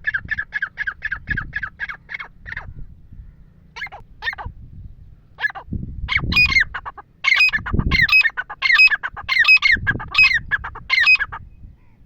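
Francolins calling: a fast run of short repeated notes, then from about six seconds in a series of loud, harsh calls repeated two or three times a second.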